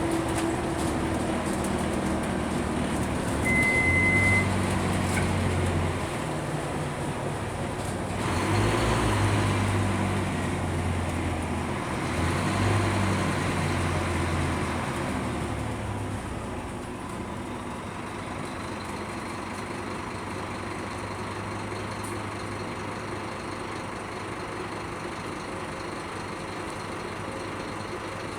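Scania K310UB city bus's five-cylinder diesel engine under way, pulling harder in three surges in the first half, then settling to a steadier, quieter hum. A short high beep sounds about four seconds in.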